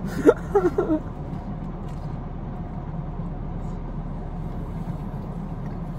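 A short laugh in the first second, then the steady low hum of a car idling, heard from inside the cabin.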